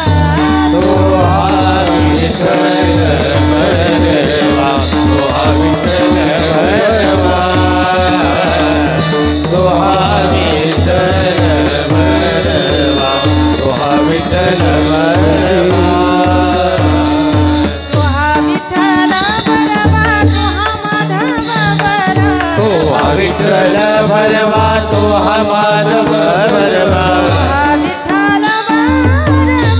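Kirtan accompaniment: a wavering melody line over a steady held drone, driven by fast hand-drum strokes.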